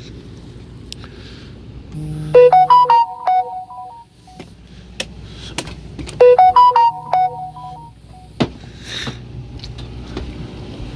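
A phone's electronic ringtone melody playing the same short phrase twice, about four seconds apart, with a few sharp knocks in between.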